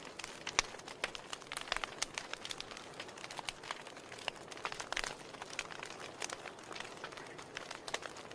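Wood fire burning in a fireplace: a steady stream of irregular crackles and pops over a soft hiss, with a few sharper pops.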